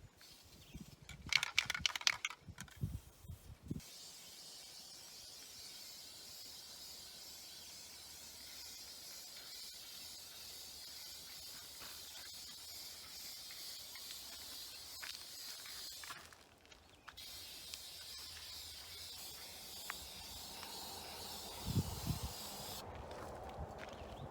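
Aerosol spray paint can: a short rattle, then two long steady hisses of spraying with a break of about a second between them.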